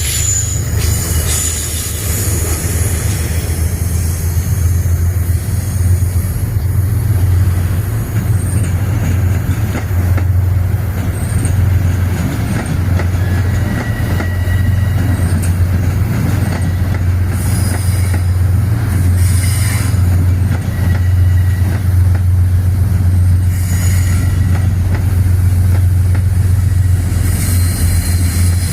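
Metro-North train running past with a steady low rumble, its wheels squealing briefly in thin high tones now and then.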